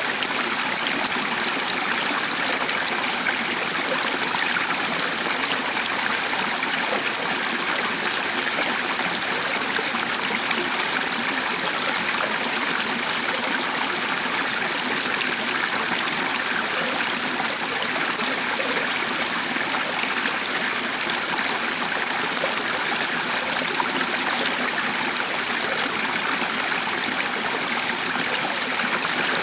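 Flowing water running steadily, an even unbroken rush like a stream.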